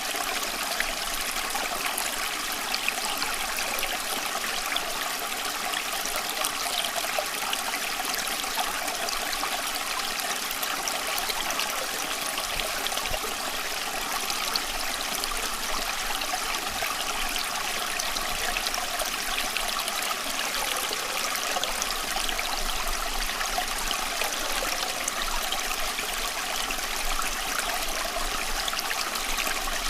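Running water, trickling and splashing steadily without a break.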